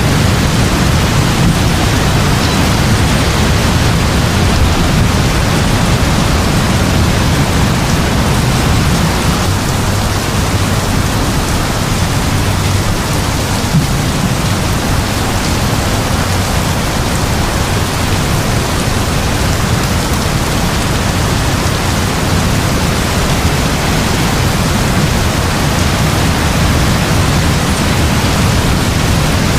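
Heavy rain falling steadily and evenly, with a deep low rumble underneath.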